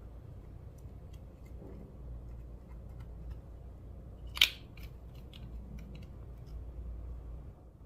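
Clear slime being worked by hand: scattered small sticky clicks, with one sharp snap about four and a half seconds in.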